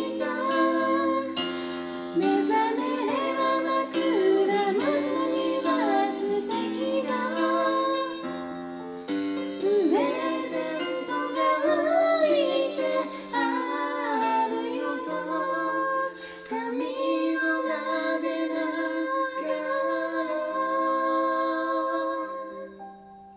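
Female vocals singing a slow ballad in harmony over a piano backing track; the singing ends and the music fades near the end.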